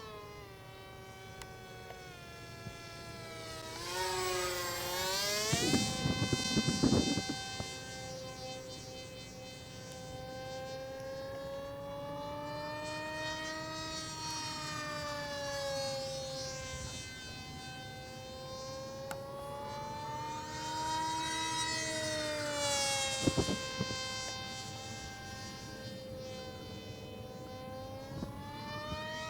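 H-King RADJet 800's electric motor and propeller whining in flight, the pitch rising and falling as the plane passes back and forth. It is loudest on two close passes, about four to seven seconds in and again about twenty to twenty-three seconds in, with brief wind rumble on the microphone during both.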